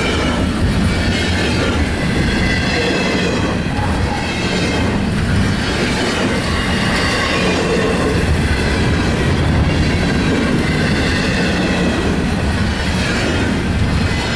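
Train cars rolling steadily past close by: a continuous loud rumble of wheels on rail with clickety-clack and a faint, wavering high-pitched wheel squeal.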